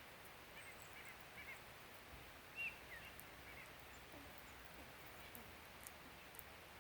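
Faint, short chirping calls of small birds, scattered through, with the loudest chirp about two and a half seconds in; a few faint ticks near the end.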